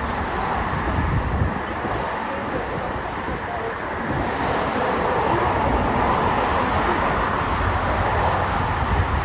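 Road traffic noise from passing cars, swelling about four seconds in, with wind buffeting the microphone.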